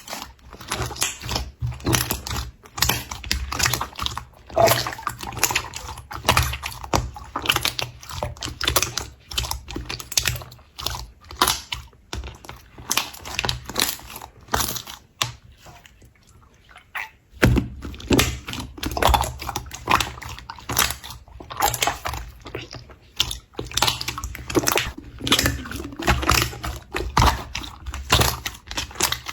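Slime being squeezed and kneaded by hand, making a rapid, irregular stream of sticky clicks and pops, with a quieter stretch a little past halfway.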